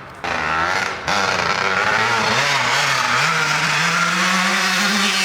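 Dirt bike engine revving, its pitch rising and falling, then held at a steady high rev for the last couple of seconds.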